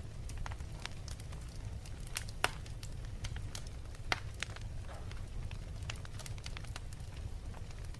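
Wood fire crackling in a fireplace: irregular sharp pops and snaps over a steady low rumble, with two louder pops about two and a half and four seconds in.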